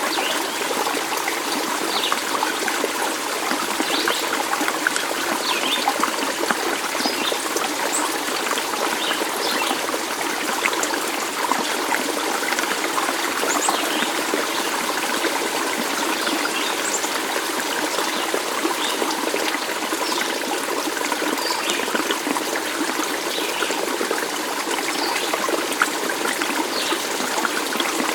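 Small stream trickling and babbling steadily, with short, scattered high-pitched notes over the running water.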